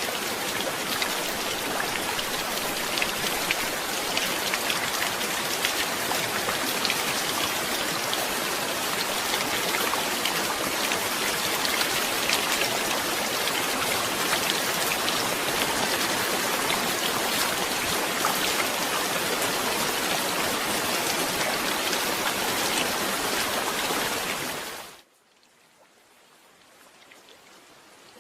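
Steady heavy rain, a dense wash of sound with many separate drop ticks in it. Near the end it cuts away sharply to a faint hush, which then slowly swells back.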